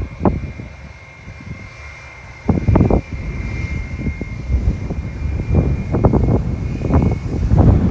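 Jet airliner engines running with a steady high whine, while gusts of wind buffet the microphone in uneven rumbling surges, the strongest about two and a half seconds in and near the end.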